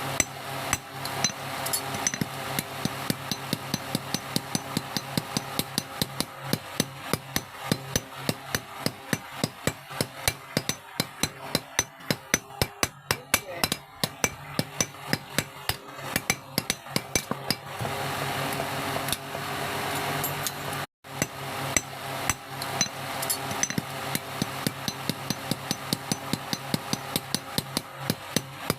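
Blacksmith's hammer striking metal again and again in a fast, steady rhythm, each blow with a bright metallic ring, over a steady low hum. The blows thin out for a few seconds about two-thirds of the way through, and the sound cuts out for an instant just after.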